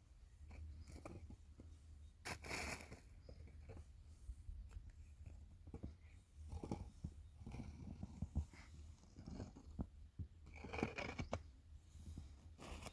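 Faint handling noises: scattered small clicks, scrapes and rustles, with a louder rustle about two seconds in and again near the end, over a steady low hum.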